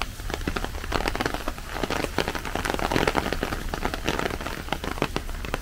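Rain falling steadily, with many separate drops striking close by over a constant hiss; it is densest around the middle.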